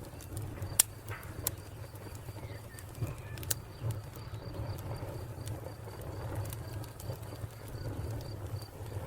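Wood fire crackling, with a few sharp pops over a steady low rumble, the loudest pop about a second in. A cricket chirps in a steady, even pulse throughout.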